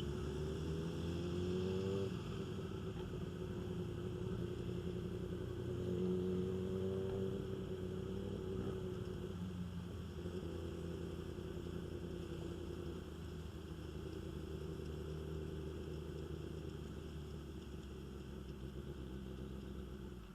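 Motorcycle engine running at low speed. The pitch rises twice, at the start and again about six seconds in, as the throttle is opened, then steadies and slowly fades before cutting off at the end.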